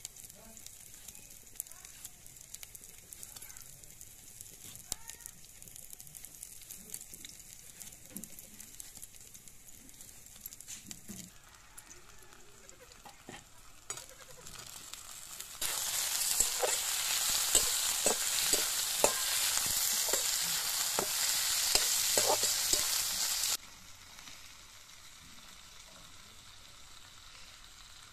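Tomato and chopped spring onion sizzling in hot oil in a steel pan, with a spoon knocking and scraping against the pan as they are stirred. The loud sizzle starts suddenly about halfway through and cuts off abruptly near the end; before it there is only a faint background with a few light clicks.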